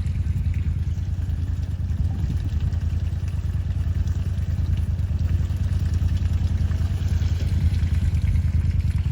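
A vehicle engine running steadily with a fast, even pulse, under load as it pulls on a tow strap to free a stuck truck.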